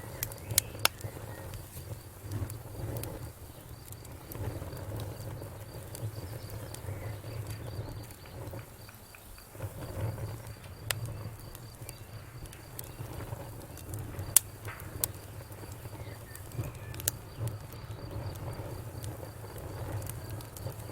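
Wood fire crackling, with irregular sharp pops and snaps over a low rumble of the flames; one pop stands out loudest about two-thirds of the way through. A faint, evenly pulsing high chirp runs behind it.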